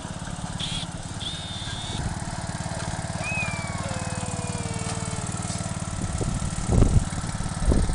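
Craftsman 15.5 HP riding lawn mower engine running steadily, with a couple of short thumps near the end.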